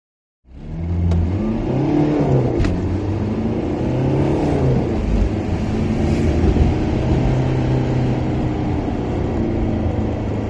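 Caterham Seven sports car engine starting up about half a second in. The revs rise and fall twice as the car pulls away, then the engine runs at a steadier pitch while cruising.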